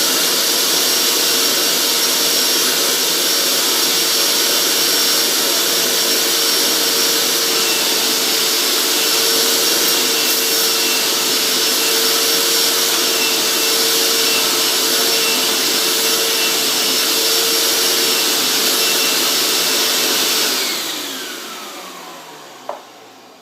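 Hoover SteamVac carpet cleaner running steadily, its suction motor drawing water out of a car floor mat through the upholstery attachment. About twenty seconds in it is switched off and the motor winds down, its whine falling in pitch.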